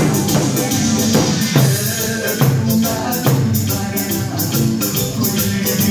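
Korean buk and janggu drums beaten in rapid, steady strokes over loud recorded backing music.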